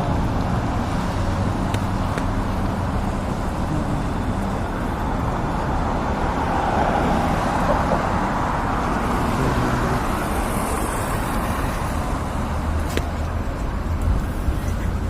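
Road traffic noise from passing cars, swelling as one vehicle goes by about halfway through.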